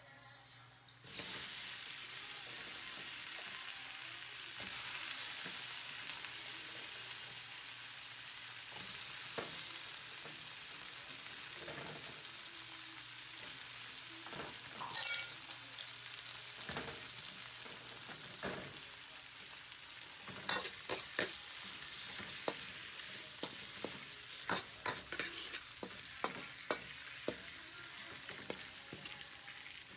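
Minced garlic and whole shell-on shrimp sizzling in a steel wok, a steady hiss that starts suddenly about a second in. From about two-thirds of the way through, a metal ladle clinks and scrapes against the wok many times as the shrimp are stirred.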